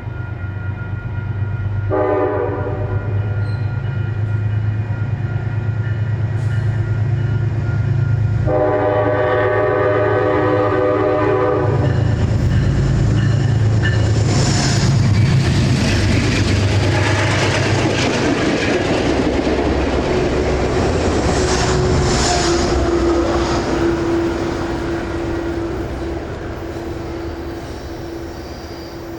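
Metro-North GE P32AC-DM diesel locomotives approaching with engines running, sounding the horn twice: a short blast about two seconds in and a longer one around nine seconds. The train then passes with loud wheel and rail noise that fades near the end.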